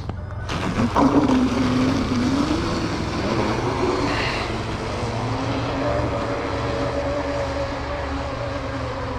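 Electric motors of a radio-controlled catamaran boat running under power. A whine starts about half a second in and wavers up and down with the throttle at first, then holds a steady pitch that slowly drops, over a rush of water and air noise.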